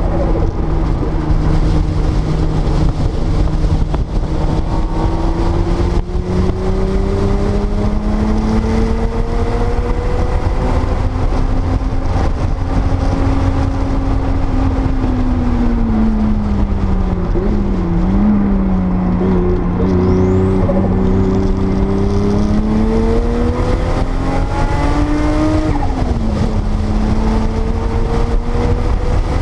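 1979 Porsche 930 Turbo's turbocharged air-cooled flat-six under way on track, heard from inside the car. The revs climb slowly, fall away for a corner with a short blip about 18 seconds in, then climb again and drop sharply near the end, over a steady low rumble.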